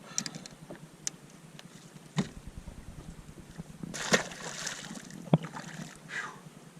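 A walleye thrashing on a boat while being unhooked: a scatter of sharp knocks and thumps, about five, with a short rushing, splashy burst about four seconds in.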